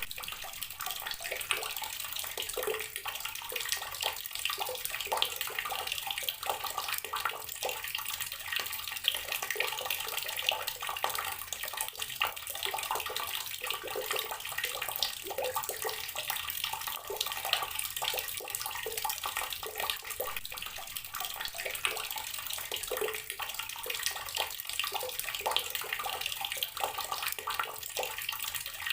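Water tap running steadily, its stream splashing continuously with many small irregular spatters.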